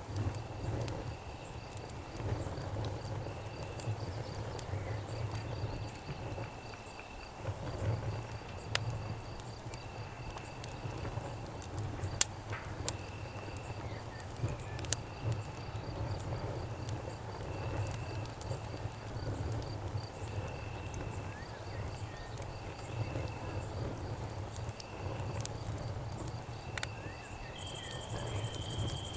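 Crickets chirping in repeated high trills about a second long with short gaps, over a low steady rumble, with a few sharp pops of a campfire crackling. Near the end a louder, steady high insect buzz comes in.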